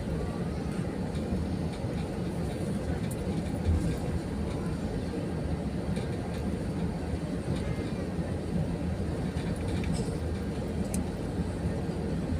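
Airbus A320-200 cabin noise heard from economy class: a steady, dense low rumble of the jet engines and airframe.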